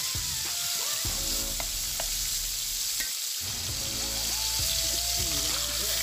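Marinated chicken pieces sizzling steadily as they fry in hot cooking oil in a metal pan, with a few light clicks.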